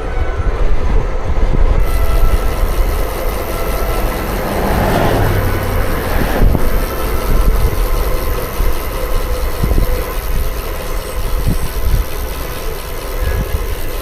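Steady low rumble of wind and road noise while riding a bicycle, with a motor vehicle going past about five seconds in.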